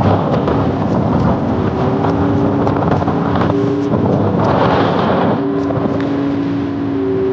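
Motorboat engine running steadily, with heavy wind buffeting the microphone; a louder rush of wind noise swells about four and a half seconds in.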